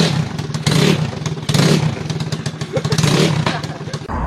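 A motor running with a steady hum that swells and fades about once a second, with scattered clattering knocks over it.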